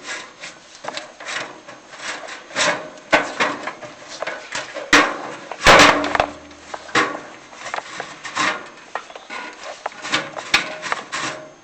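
Chimney inspection camera and its push rods scraping and rubbing against the inside of a prefab metal chimney flue in irregular short strokes as it is worked through an offset, with one louder scrape about six seconds in.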